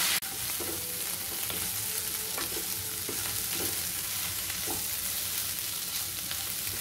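Pre-boiled bitter gourd slices and onion sizzling in hot oil in a kadai, stirred with a wooden spatula that knocks and scrapes against the pan now and then. The slices are being fried until they take on colour.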